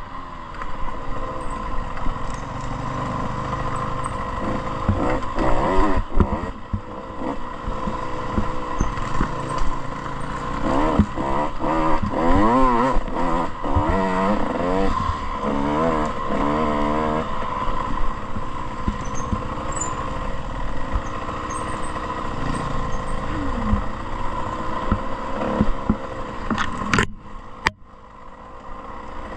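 Motocross bike engine revving up and down again and again as it is ridden over the track. Near the end come a couple of sharp knocks and a brief drop in the engine sound.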